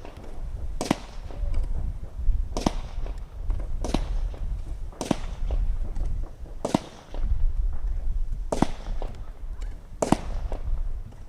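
Consumer firework cake firing: about seven sharp bangs, roughly one every second and a half, over a low rumble.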